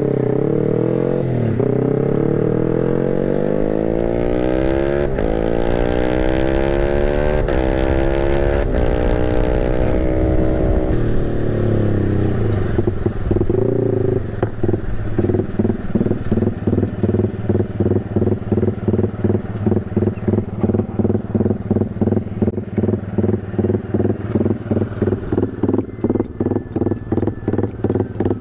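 Bored-up motorcycle engine on a 'timing kuda' ECU ignition setting: first revving up with its pitch rising for several seconds, then, from about halfway, idling with an uneven galloping beat about twice a second, the horse-like idle that this timing setting is meant to give.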